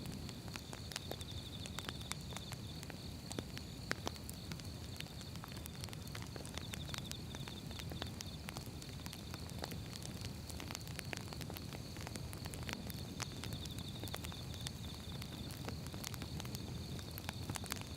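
Firewood logs burning, with frequent sharp crackles and pops over a low steady rumble of the flames; one louder pop about four seconds in.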